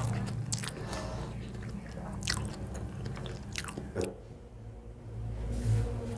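A person chewing and biting a mouthful of food close to the microphone, with a few short, sharp mouth clicks spread through it.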